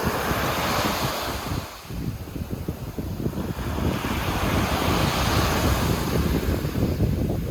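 Sea surf washing onto the shore: one wave surge fades about two seconds in and a larger one builds and breaks through the middle. Wind buffets the microphone with a low rumble throughout.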